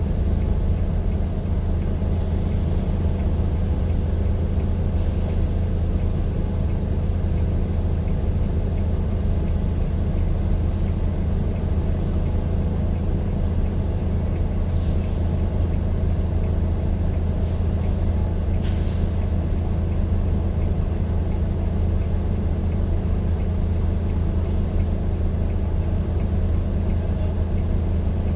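Steady low drone of a vehicle's engine and running noise, unchanging throughout, with a few brief high hisses about 5, 15 and 19 seconds in.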